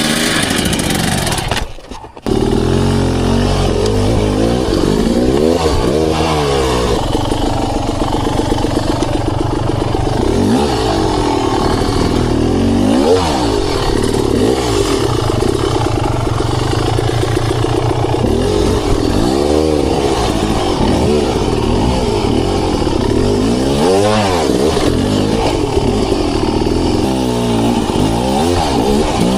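Beta Xtrainer two-stroke dirt bike engine under way, its revs rising and falling again and again as the throttle is worked on the trail. There is a brief break about two seconds in.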